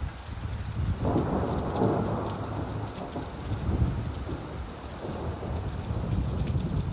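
Steady rainfall with a low rolling rumble that swells about a second in and carries on through the rest.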